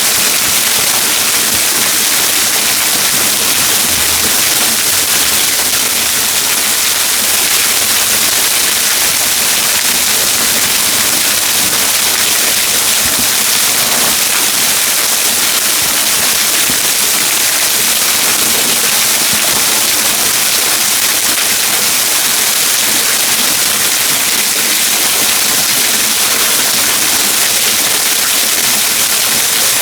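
Waterfall running, a loud, steady rush of falling water that does not change.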